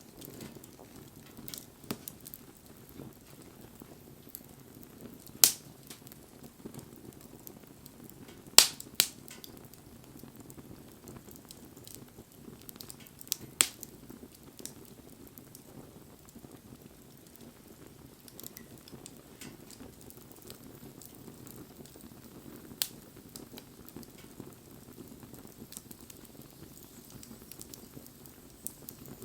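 Wood campfire burning with a low steady rustle and sparse crackles, broken by about five sharp, loud pops spread through it.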